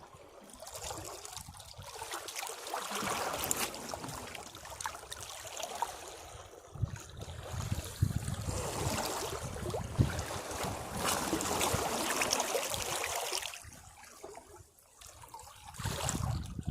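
Sea waves washing over and splashing against rocks: a hissing wash that swells and drains back over several seconds, with a few sharp splashes. The wash dies down briefly near the end before the next wave comes in.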